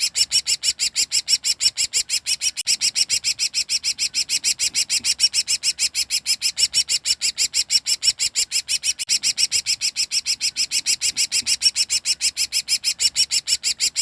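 Cucak ranting songbird calling 'ngekek': an unbroken, rapid string of short high chirps, about seven a second, kept up without a pause.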